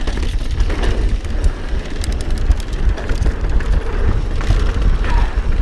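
Wind buffeting a helmet-mounted action camera's microphone during a fast mountain-bike descent, a steady low rumble, with the roar of tyres on dirt under it. A short run of rattling clicks from the bike comes about two seconds in.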